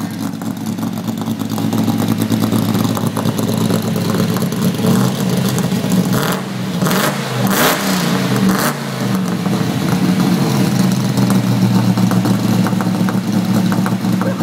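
Holden VL Commodore SS V8 engine running, its exhaust note steady at first. It is revved a few times around the middle, the pitch rising and falling, with a few short noisy bursts among the revs.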